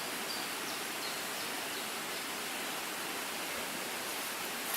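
A steady rushing hiss of outdoor ambience, even throughout, with a faint click near the end.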